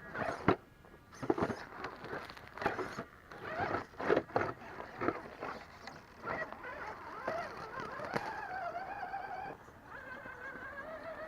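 1/10-scale RC rock crawler on the move: irregular knocks and scrapes in the first half, then its electric motor and gears whining steadily, the pitch wavering up and down as the throttle changes.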